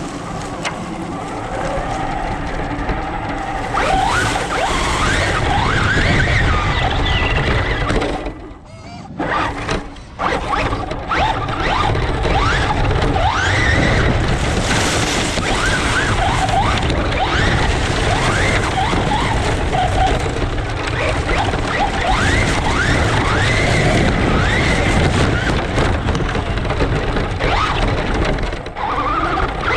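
Radio-controlled truck's motor whining and rising in pitch again and again as it accelerates, over a loud steady rush of noise. The sound drops away briefly about eight to ten seconds in.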